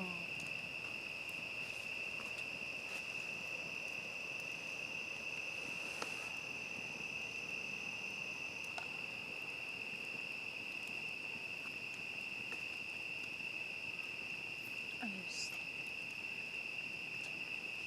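Crickets chirping in a steady, unbroken high-pitched chorus, with a second high trill joining for several seconds early on and a few faint clicks.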